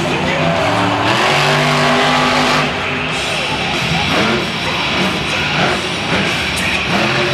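Monster truck engine revving and running hard, with loud stadium music playing over it.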